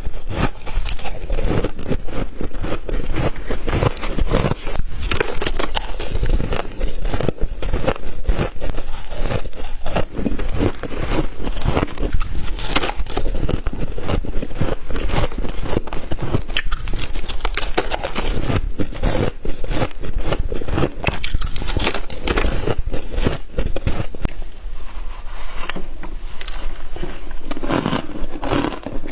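Close-miked biting and chewing of humidifier frost: dense, continuous crunching and crackling. About 24 s in the sound changes, with a steady high hiss added.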